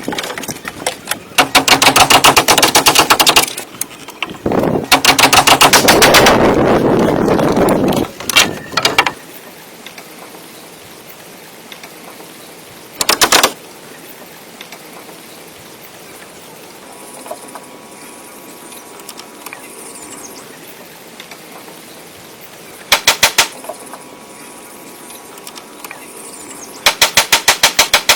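Rapid mechanical hammering, about a dozen knocks a second, in bursts of half a second to two seconds. It is loud and frequent in the first nine seconds, then comes only twice more briefly before starting again near the end, with quiet hiss between.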